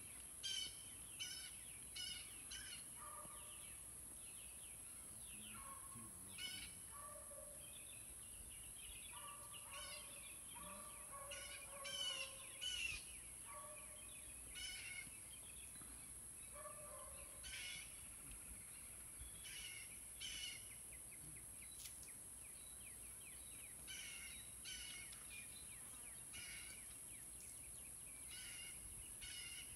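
Birds calling: short chirps repeated every second or so, with a few lower notes mixed in, over a steady high-pitched hiss.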